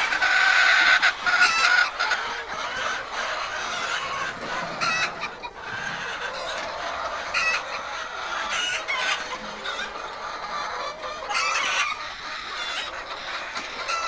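A flock of laying hens clucking and squawking without pause, many birds calling over one another, loudest in the first two seconds.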